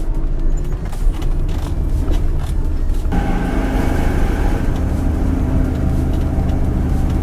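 Motor vehicle engine running steadily under load. Its note changes abruptly about three seconds in.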